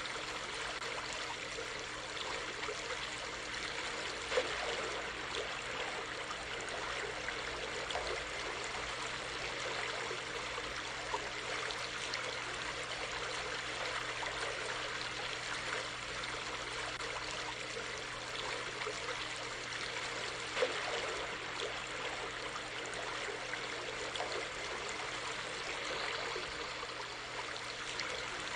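Creek water running steadily, with two brief louder moments about 4 seconds in and again near 20 seconds.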